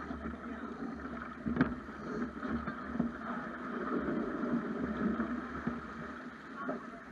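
Water rushing and slapping along the hull of a Snipe sailing dinghy under sail, with wind buffeting the microphone and a sharp knock about one and a half seconds in.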